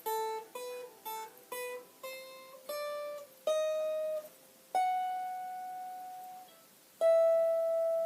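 A plucked string instrument picking single notes in a rising melody that slows down, then two longer notes left to ring, about five and seven seconds in.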